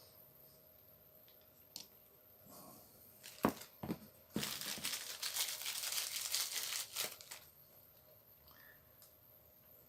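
Hand-handling noise at a workbench: a few sharp clicks, then about three seconds of crinkling, tearing rustle that stops abruptly.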